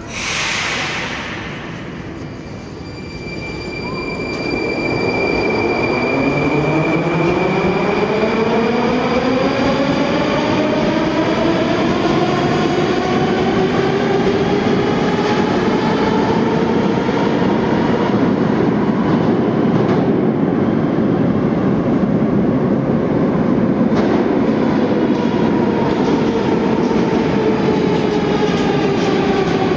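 81-740/741 Rusich metro train pulling away and accelerating. The whine of its inverter-fed asynchronous traction motors rises in pitch for about ten seconds, then levels off and sinks slightly near the end, over steady wheel and track rumble. A short hiss comes at the very start.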